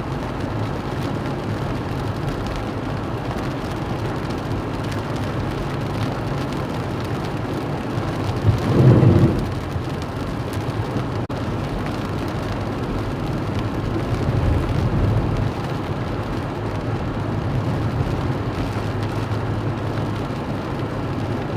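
Steady heavy rain and wind noise in a storm, with a brief louder low rumble about nine seconds in.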